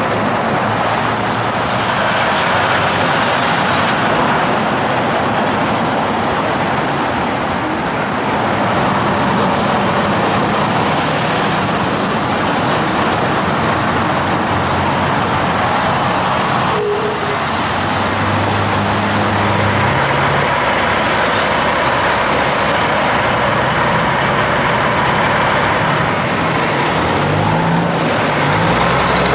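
Busy highway traffic with big rigs passing: continuous tyre and engine noise. A heavy engine drones more plainly from about two-thirds through and again near the end, with a single sharp click a little past the middle.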